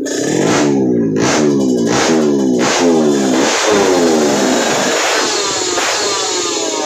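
Drag bike engine revved in a quick series of throttle blips, each rising sharply in pitch and dropping back, about one every two-thirds of a second. After about three and a half seconds it runs on at high revs that slowly fall away.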